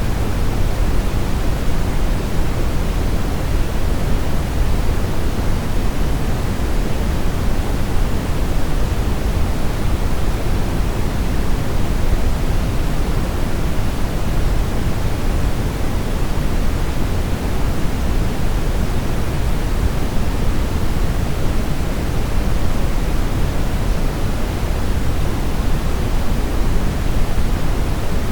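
Steady brown noise: a deep, even rush with most of its weight in the low end, thinning out toward the highs, unchanging throughout.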